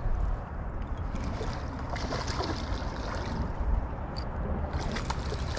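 Creek water rushing and splashing, with a steady low rumble underneath and brighter splashes a couple of seconds in and again near the end.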